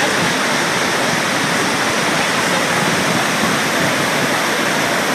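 Iguazu Falls: a large waterfall pouring, a loud, steady, unbroken rush of falling water.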